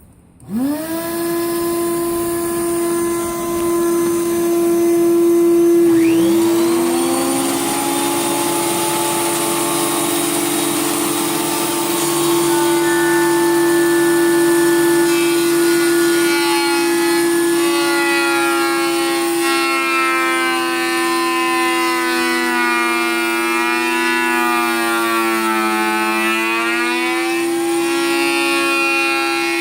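Electric woodworking machines, likely a thickness planer, spinning up to a steady high whine just after the start, with a second motor starting about six seconds in. Later the pitch dips and recovers, as a motor does when yellow poplar boards are fed through and it comes under load.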